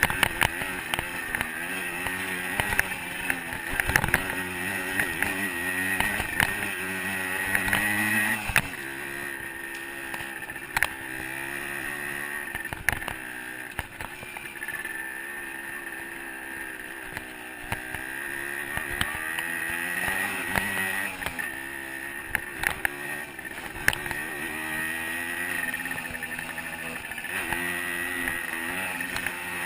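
A 125cc two-stroke dirt bike engine is under way on a trail, revving up and down as the throttle changes. Its pitch drops about a third of the way in and climbs again later. Frequent sharp knocks and clicks from the bike going over rough ground run through it.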